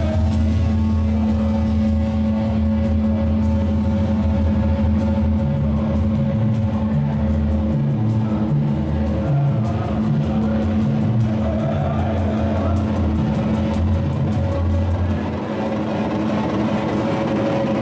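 Experimental electronic sound from micro synthesizers played through a car-audio speaker system with subwoofers: a loud, steady deep bass drone under a held higher tone, with a pulsing bass pattern for several seconds in the middle. The deepest bass drops away near the end.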